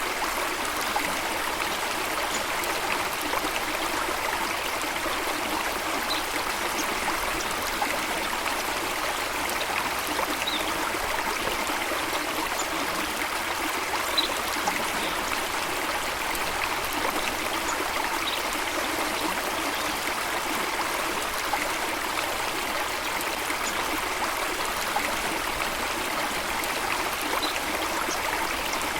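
Running water of a stream or waterfall, a steady, even rushing with no change. A few faint, short high bird chirps are scattered through it.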